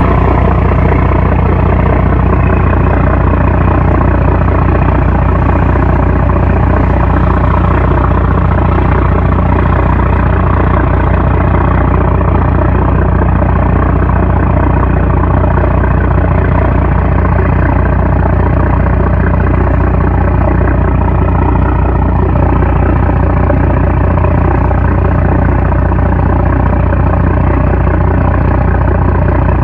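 A 750-horsepower fishing trawler's diesel engine running steadily at constant load, a loud, even drone.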